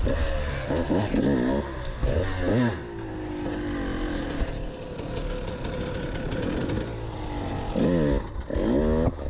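KTM 200 EXC two-stroke dirt bike engine revving in short, sharp blips about a second in and again near the end, with a steadier, slowly falling engine note in between.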